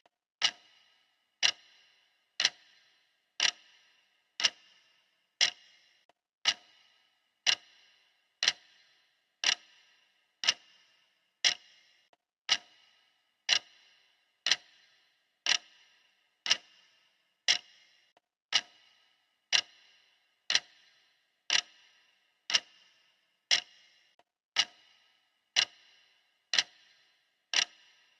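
Clock ticking steadily, one sharp tick about every second, each with a brief ring after it.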